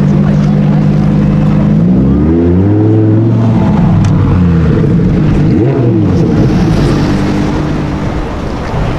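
Sports car engine idling, then revved up sharply about two seconds in and falling back, with a second rise and fall of revs near the middle before settling into a rougher, slightly quieter rumble.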